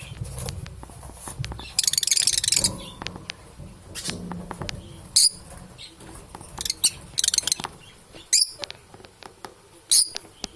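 Budgerigars chirping: two bursts of rapid chattering warble and several sharp, high single chirps, with small clicks in between.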